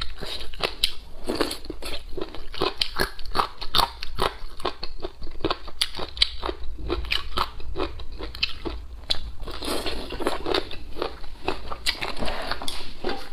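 Close-miked chewing and biting of spicy chicken feet: many sharp, crisp crunches in quick succession.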